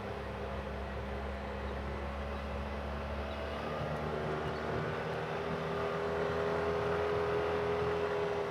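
Off-road vehicle engine running steadily while riding, its note and loudness rising gently over the second half.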